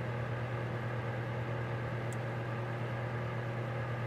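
Steady machine hum with a strong low tone and an even haze above it, unchanging throughout, with one faint click about two seconds in.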